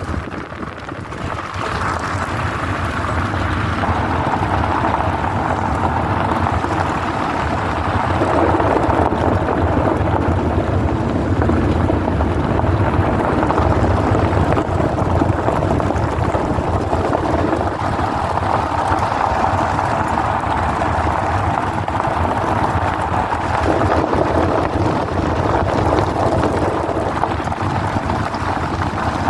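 A car driving, with steady road and engine noise heard inside the cabin. The tone of the road noise shifts a few times, about eight, eighteen and twenty-four seconds in, as the road surface changes.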